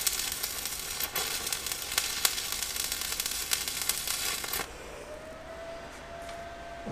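Stick welding arc crackling and sizzling while a tack weld is struck, with sharp pops throughout. It cuts off suddenly about four and a half seconds in, leaving a faint steady whine.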